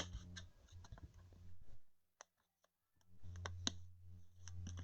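Light, scattered clicks and taps of trading cards being handled and sorted by hand, over a faint low hum, with a short lull about two seconds in.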